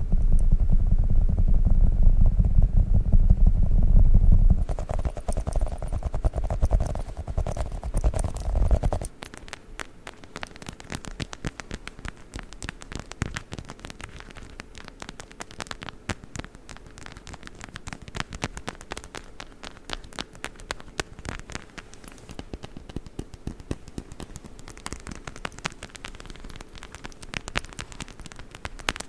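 Globbles squishy sticky toys squished close to the microphone, a loud low rumbling squelch. About nine seconds in this gives way to a rubber witch-finger toy handled against the microphone, a quieter, rapid stream of light clicks and crackles.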